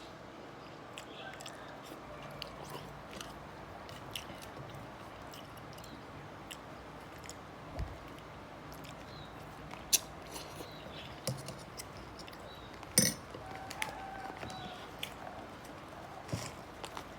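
A person chewing and crunching food while eating, with scattered small mouth clicks. Two sharper clicks stand out, about ten and thirteen seconds in.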